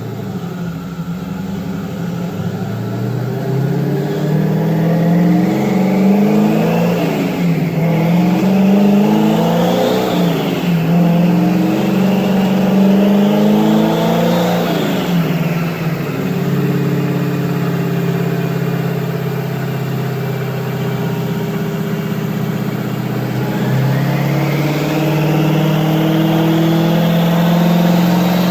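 Twin-turbocharged Dodge Challenger engine being run up under load, likely on a chassis dyno during tuning. Engine pitch and a high whine climb together for about ten seconds, ease off and climb again, then drop back around the middle to a steady run. Near the end they begin climbing once more.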